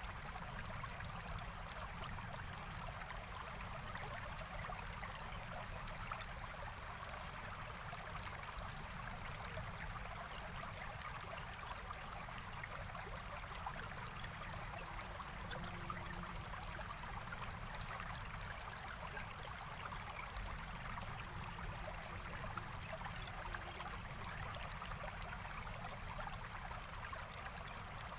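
Forest stream flowing and trickling steadily, with a few faint scattered ticks.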